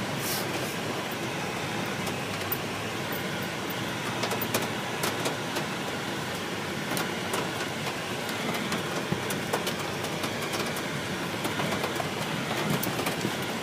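Car driving in a thunderstorm, heard from inside: steady road and engine noise, with raindrops tapping sharply on the roof and windshield, the taps coming more often from about four seconds in.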